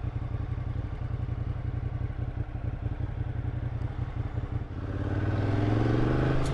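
Motorcycle engine running at low revs, then louder and rising in pitch as the bike accelerates about five seconds in.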